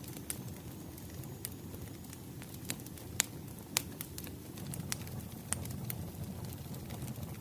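Wood fire crackling: a steady low rumble of burning logs with irregular sharp pops and snaps, a few louder ones in the middle.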